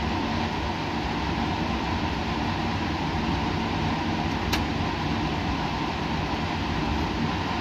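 Steady rushing hum of laboratory machinery and ventilation, with a faint constant tone riding on it. A single small click comes about halfway through.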